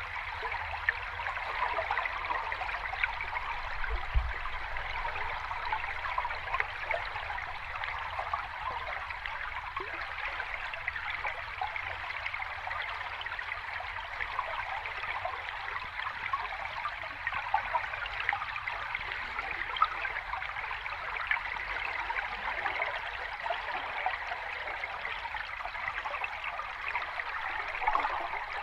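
Water running over a small cascade: a steady babbling rush full of small bubbling splashes.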